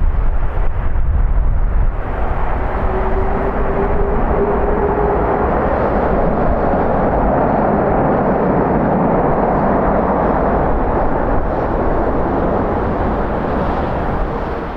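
Jet airliner's engines running loud as the aircraft passes, with strong wind buffeting the microphone. The engine roar swells about two seconds in and cuts off abruptly at the end.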